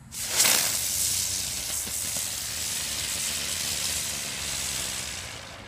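Firework fountain spraying sparks: a loud, steady hiss that starts suddenly and burns for about five seconds before dying down near the end.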